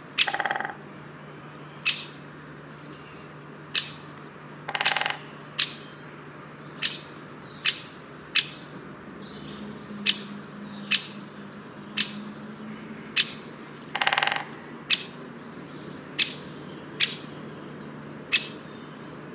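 A bird calling over and over with short, sharp, high chirps about once a second. Three longer, harsher calls come near the start, about five seconds in, and about fourteen seconds in. A steady low hum runs underneath.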